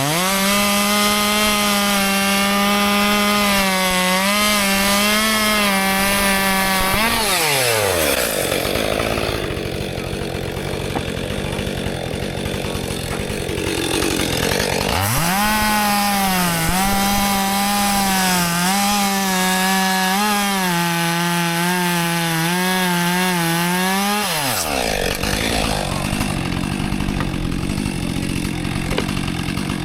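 Husqvarna 564 XP 62cc two-stroke chainsaw at full throttle cutting frozen red oak, its high engine note wavering as the chain loads in the wood. It revs down about 7 s in, runs at full throttle again from about 15 s to about 24 s, and then drops back to idle.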